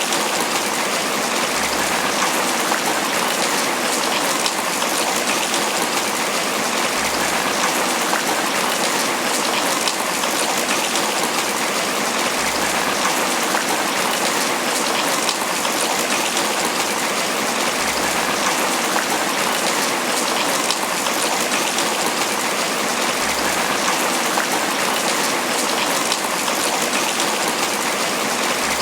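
Steady tropical rain falling on banana leaves: a dense, even patter that never lets up.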